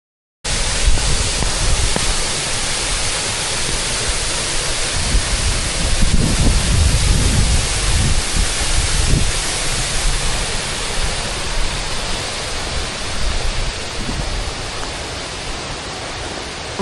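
Steady rush of falling or fast-flowing water, cutting in abruptly half a second in, with wind buffeting the microphone in low gusts about six to nine seconds in.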